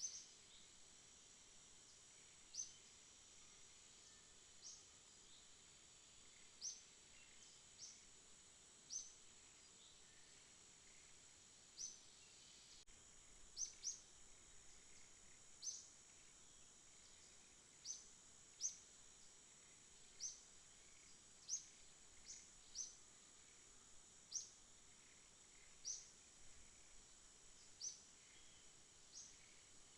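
Night outdoor ambience: a steady, high-pitched insect drone, with short high chirps repeating irregularly about every one to two seconds.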